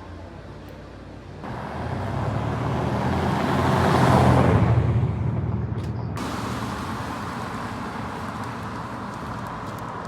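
A road vehicle passes close by, its engine and tyre noise swelling to loudest about four seconds in and then fading into steady traffic hum.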